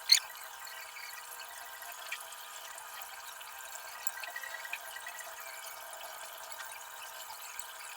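Faint close-up eating sounds: chewing with small wet mouth clicks, and one sharp click right at the start.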